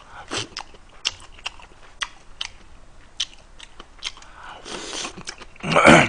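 Close-miked mouth sounds of a man chewing a mouthful of spicy stir-fried food and rice: irregular wet smacks and clicks. Just before the end comes a loud breathy puff.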